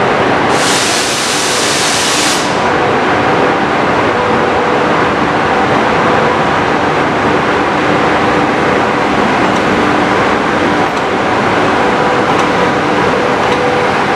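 Train running on the rails: a loud, steady rumbling noise with a faint hum that comes and goes. A brief high hiss lasts about two seconds near the start.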